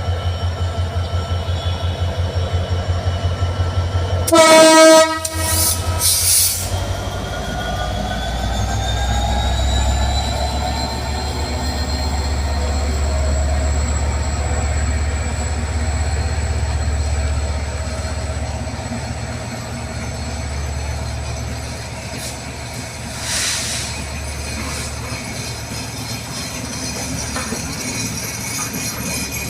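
Diesel train locomotive: a loud horn blast about four seconds in, with two short bursts just after. Then a whine rises in pitch over a steady low rumble as the train accelerates away from the station.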